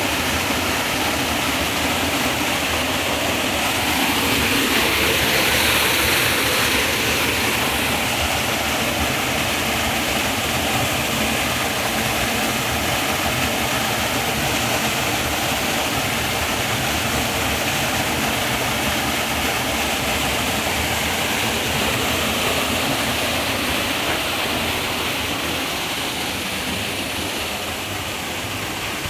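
Waterfall rushing: a steady, even roar of falling water that swells a little a few seconds in and eases slightly near the end.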